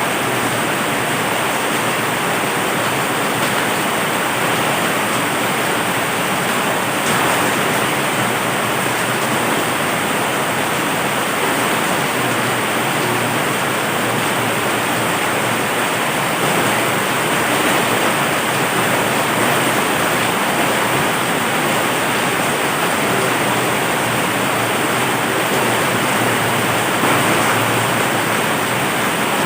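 Heavy rain falling steadily, a dense, even hiss with no thunder heard.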